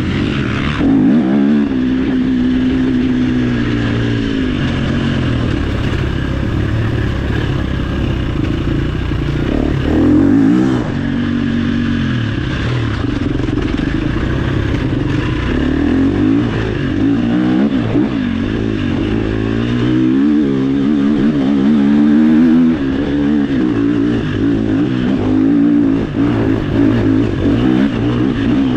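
Dirt bike engine ridden off-road, its pitch rising and falling again and again as the throttle opens and closes.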